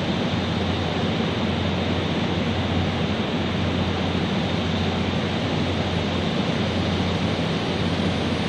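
Steady low rumble and hiss of a passenger train rolling slowly in alongside the platform in a covered railway station, with a constant low hum underneath.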